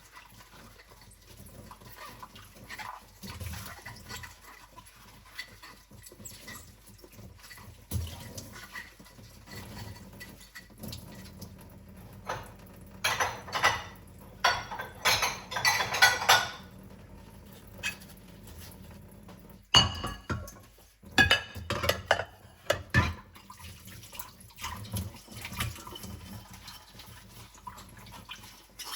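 Dishes being washed by hand in a sink: plates and cutlery clink and knock against each other, with splashing water. Around the middle comes a louder stretch of water splashing for a few seconds, then a run of sharper clatters.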